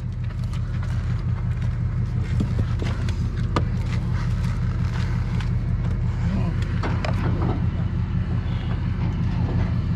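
Tow truck engine idling with a steady low rumble, with a few light clicks and knocks over it.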